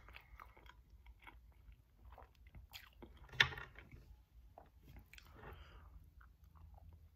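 Quiet, close-up chewing of a soft buffalo chicken slider with melted cheese on a Hawaiian roll: small wet smacks and clicks. One louder mouth sound comes about three and a half seconds in.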